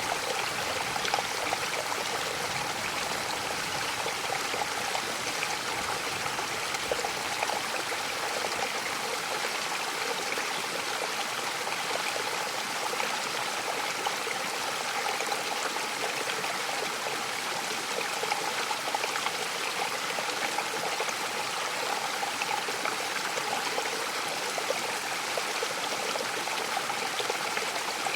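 Mountain waterfall with water falling and splashing in a steady, unbroken rush.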